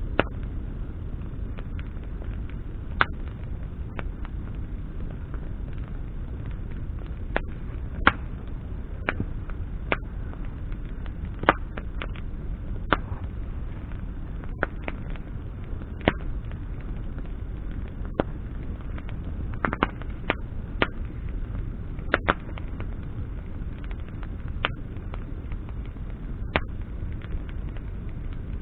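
Bonfire of branches burning: sharp, irregular crackles and pops over a steady low rush of flame.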